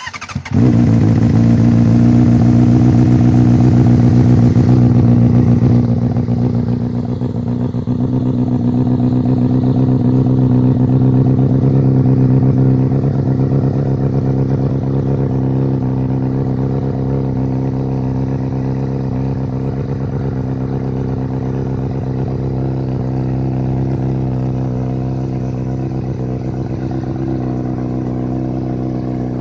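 2009 Honda CBR600RR's inline-four engine starting and catching at once, then idling steadily through a Leo Vince aftermarket exhaust. The idle eases slightly in loudness about five or six seconds in.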